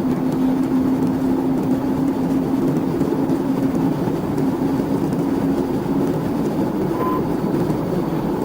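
A car driving at speed with a steady road and engine rumble and a droning tone that fades out about six seconds in.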